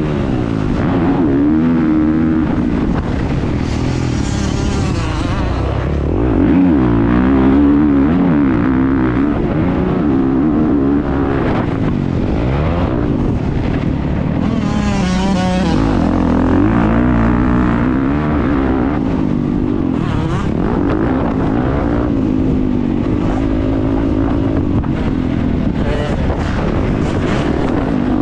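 Motocross bike engine on track, its pitch rising and falling continually as the rider opens and closes the throttle and shifts gears, heard on board with wind noise. Two stretches of louder hiss come about four and fifteen seconds in.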